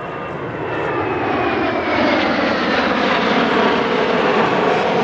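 Blue Impulse Kawasaki T-4 twin-turbofan jet flying past, its roar growing louder, with a whine that slides down in pitch over the first two seconds.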